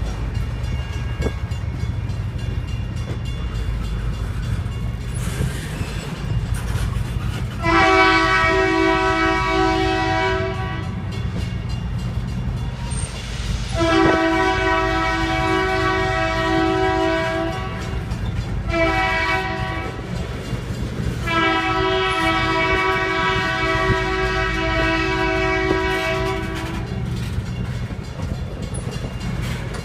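Locomotive air horn sounding the grade-crossing signal: two long blasts, a short one, then a long one, over a steady low rumble from the approaching train.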